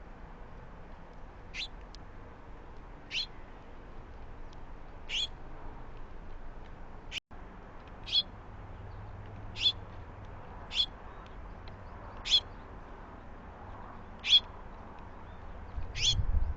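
A bird gives a short, sharp, high call over and over, about ten times, one every second or two. A low rumble comes in near the end.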